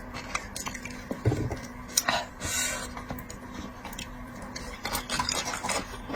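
Close-up eating sounds: a person chewing seafood, with scattered small clicks of cutlery against a dish and a soft thump about a second in.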